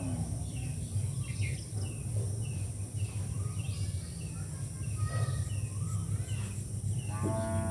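Small birds chirping in the background, short high chirps repeated about twice a second, over a steady low hum.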